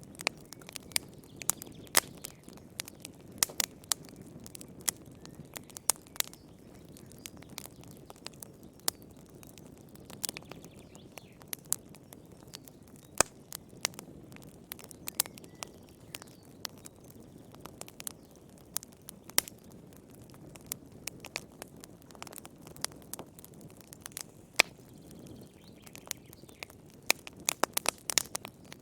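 Wood fire burning in a fireplace: irregular sharp crackles and pops over a steady low rumble of flame, with a quick flurry of pops near the end.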